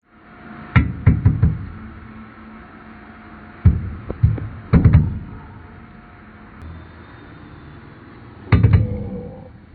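Three bursts of sharp, heavy knocks, each a few blows in quick succession: about a second in, around four to five seconds in, and near the end.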